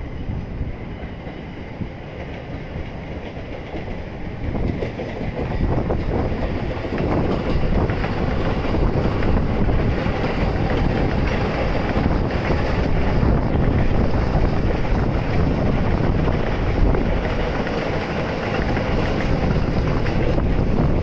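Several JR electric trains running past on the tracks below at once, a steady rumble of wheels on rail with some clatter. It grows louder about four seconds in.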